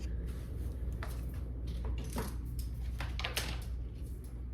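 A few soft knocks and rustles of objects being handled, over a steady low hum.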